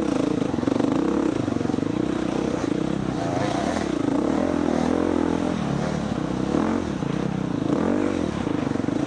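Four-stroke dirt bike engine under race load, its pitch rising and falling repeatedly as the throttle is opened and shut through the off-road course.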